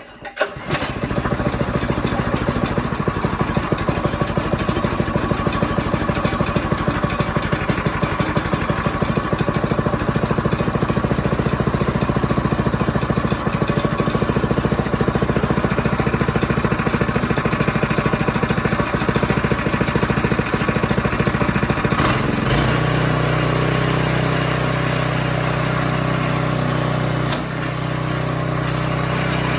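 Harbor Freight Predator single-cylinder engine on a Troy-Bilt Pony rototiller. It has just been pull-started cold with the choke set, catches at once and runs steadily with a fast, even firing. About 22 seconds in, the note shifts to a smoother, steadier tone.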